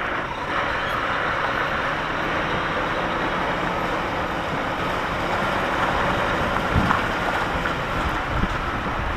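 Diesel engine of an HGV lorry running steadily, heard with the cab's noise as an even, continuous rumble and hiss.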